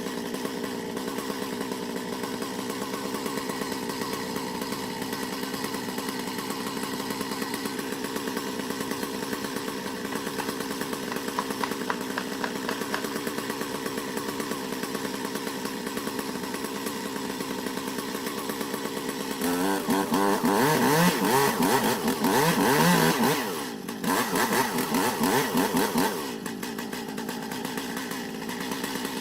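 Two-stroke chainsaw running steadily, then revving up much louder for several seconds about two-thirds of the way in, with a brief drop midway, before settling back to its steady running.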